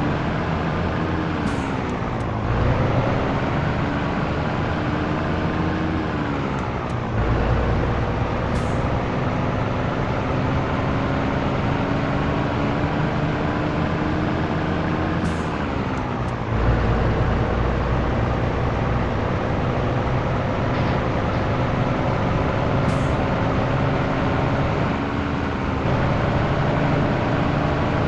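Scania T113 truck's diesel engine pulling through the gears: the engine note climbs steadily, then drops sharply at each upshift, four times. Brief faint hisses are heard now and then.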